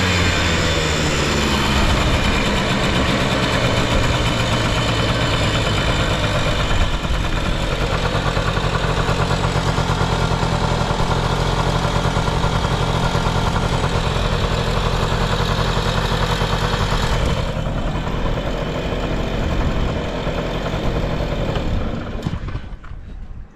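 Honda Lead 90 scooter's two-stroke single-cylinder engine dropping from a rev to a steady idle, running evenly with no abnormal noise. The sound dies away near the end.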